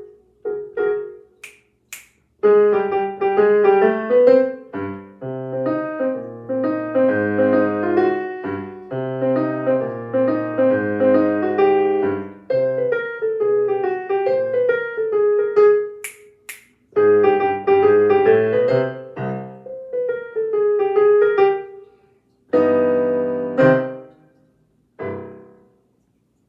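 Piano playing a jazzy solo in chords, with finger snaps written into the piece: two snaps about two seconds in and two more about sixteen seconds in. The piece closes on a final chord near the end.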